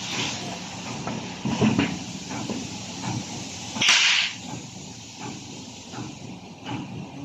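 Workshop noise from gearbox work: scattered light clicks and knocks of tools and metal parts, with one short, loud hiss about four seconds in.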